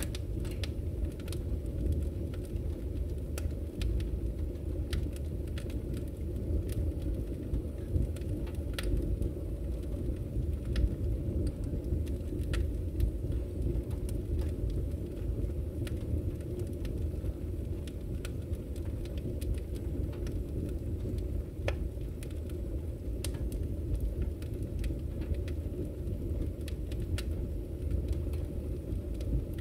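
Wood fire burning in a fireplace: a steady low rumble of flames with scattered, irregular crackles and pops.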